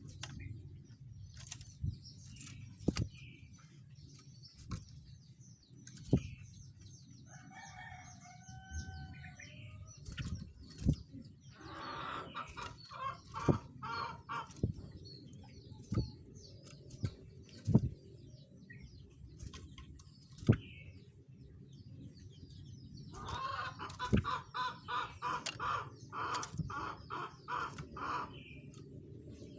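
Bird calls: a short gliding call, then two bursts of rapid repeated notes, with sharp taps scattered throughout like a bird hopping on cage perches. A thin steady high whine runs underneath.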